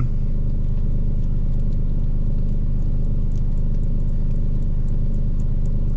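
Steady low mechanical hum, with a faint scatter of light ticks as oiled new potatoes are tossed around in their container to coat them in paprika.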